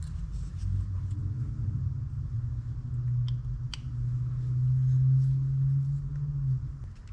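A steady low hum that swells about four seconds in and fades near the end, with two small sharp clicks a little past three seconds.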